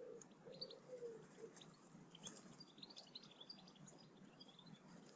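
Faint birdsong. A woodpigeon's low cooing phrase ends about a second and a half in, while small songbirds give high chirps and twitters, busiest in the middle.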